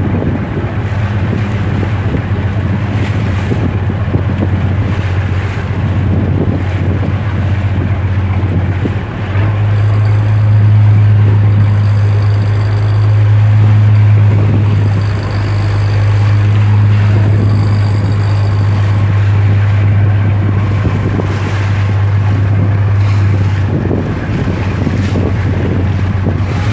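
A fishing boat's engine running steadily under way, a low constant drone that grows louder about a third of the way in and drops back near the end. Wind buffets the microphone over rushing water.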